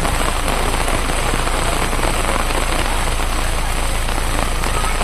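Steady rain falling on a wet street, an even hiss, with a low steady rumble underneath.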